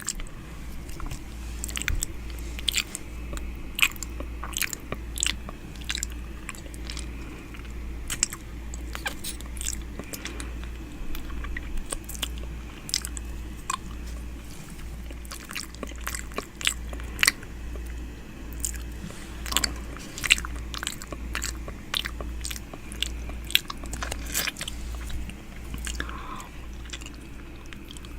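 ASMR 'ear eating' mouth sounds close to the microphone: irregular wet clicks, smacks and nibbling, several a second, over a steady low hum.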